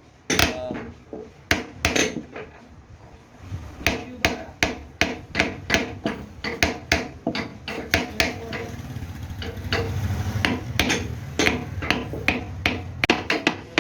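Repeated hammer blows in a workshop, irregular, about two to three a second, with a low hum beneath them from about four seconds in.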